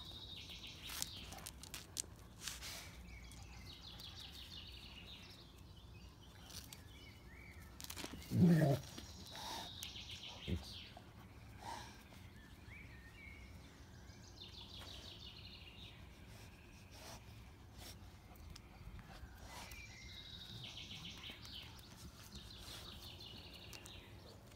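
Birds singing, short high trilling phrases coming back every few seconds, with one short dog vocalization rising and falling about eight and a half seconds in as the puppy and the older dog play.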